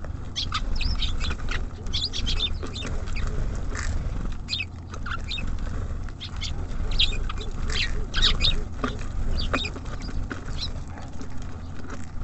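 Small songbirds chirping at a bird feeder: many short, high chirps in quick succession over a steady low rumble.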